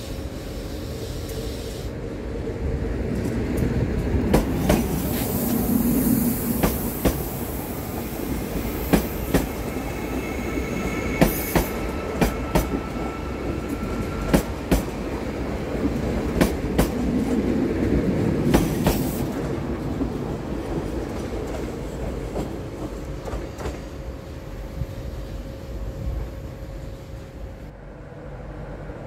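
A TER Grand Est regional multiple-unit train rolling slowly past, its wheels clacking over rail joints and points over a steady rumble, with a faint high wheel squeal. The clacks stop about two-thirds of the way through as the train clears.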